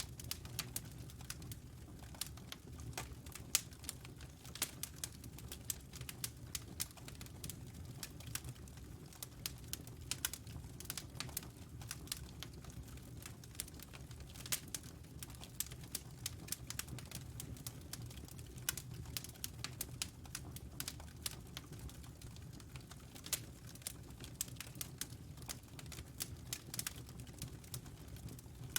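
Wood fire crackling: dense, irregular sharp pops and ticks over a steady low rumble of the flames.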